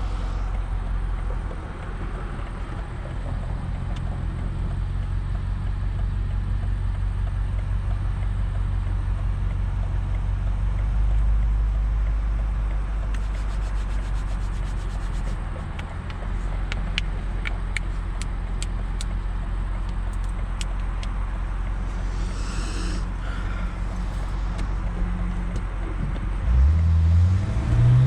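BMW M5 Competition's twin-turbo V8 and loud exhaust cruising with a steady low drone, with a run of sharp clicks in the middle. Near the end the engine revs up hard as the car accelerates.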